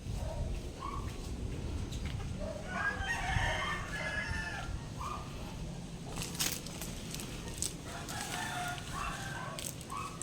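Chickens: a rooster crowing twice, with a few short clucks in between, over a steady low background rumble.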